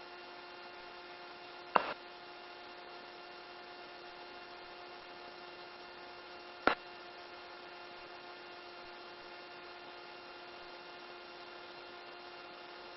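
Steady electrical hum with a few faint steady tones, broken by two short clicks about two seconds and seven seconds in.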